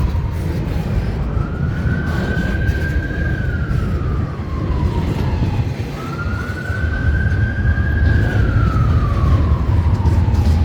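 An emergency vehicle's siren wailing, a single tone that rises, holds and slowly falls about every five seconds, over the steady heavy rumble of a passing train.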